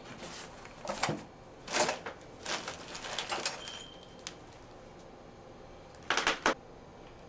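Short scraping and rubbing noises from work on copper supply pipe and fittings: five or six strokes of about half a second each, a quicker run of them around three seconds in, and one more near the end.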